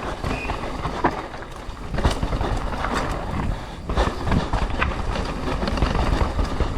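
Mountain bike descending a rough trail at race speed: steady tyre and wind rumble with frequent rattling knocks and clatters from the bike over rocks and roots.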